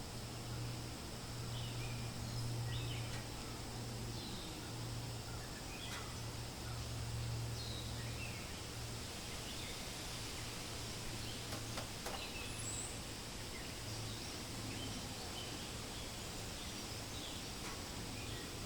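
Forest ambience: a steady low rumble and soft hiss under many scattered, short, high bird chirps, with one brief click about two-thirds of the way in.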